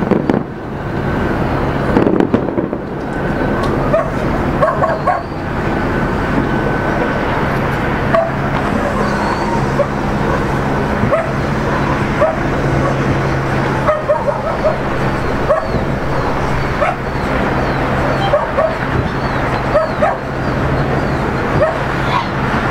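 Fireworks going off at intervals, a few sharp bangs among them, while a dog barks and yips over and over. A steady low hum runs underneath.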